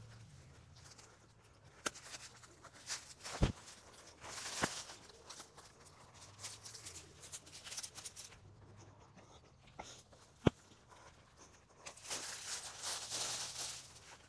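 Rustling and handling noises, with scattered small clicks and two sharp knocks, one about three and a half seconds in and one about ten and a half seconds in.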